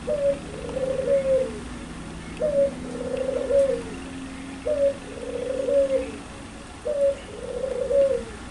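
Puter pelung, a Barbary dove (ringneck dove) kept for its loud, clear voice, cooing: four phrases a little over two seconds apart. Each phrase is a short high note followed by a longer rolling coo that drops at the end.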